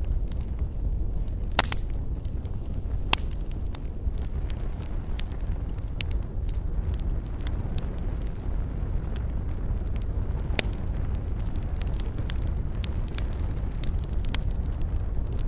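Wood fire burning in a fireplace: a steady low rumble with frequent sharp crackles and pops, two of them louder, about one and a half seconds in and about ten seconds in.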